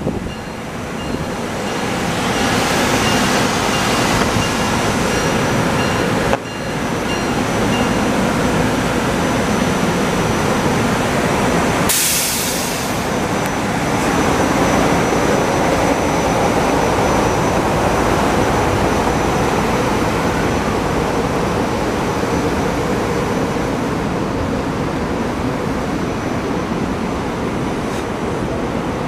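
SEPTA Silverliner IV electric commuter train moving slowly past close by, a steady rumble of wheels on the rails with a faint electric whine. A brief loud hiss comes about twelve seconds in.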